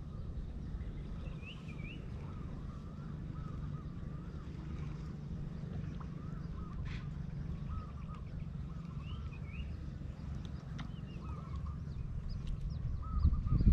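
Birds calling in short, wavy chirps that repeat every second or so, over a steady low rumble. A louder low thumping comes near the end.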